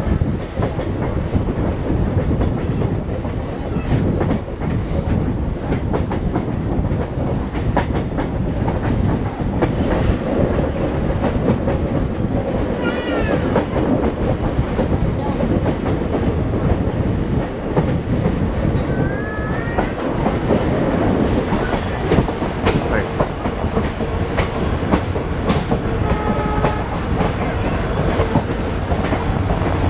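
Train running at speed, its wheels clattering steadily over the rail joints, with a few brief faint squeals partway through.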